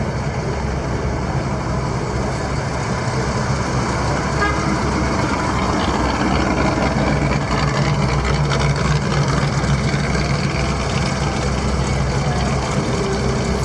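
Car engines running as cars drive slowly past in traffic, a low steady engine sound that grows louder from about four seconds in.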